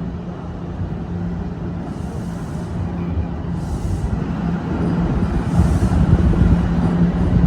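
TTC Line 1 subway train rumbling, with a steady electrical hum, growing steadily louder as it approaches the platform.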